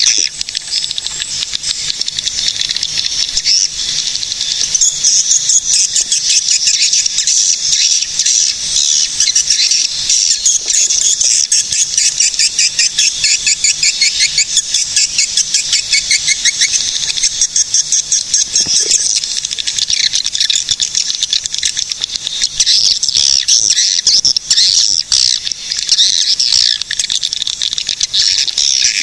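Swiftlets calling: a dense, continuous chorus of fast, high chirps and buzzing trills.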